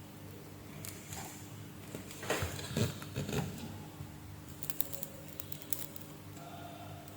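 Quiet handling of small objects on a workbench: a few light clicks, taps and brief rubbing sounds over a steady low hum.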